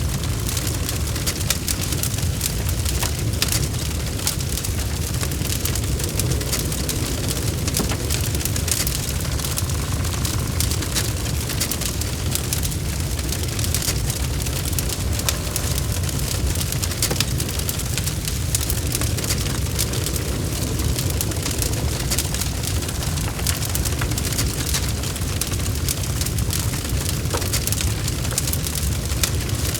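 Log fire burning steadily in a fireplace, with a continuous low rumble of the flames and frequent small crackles and pops.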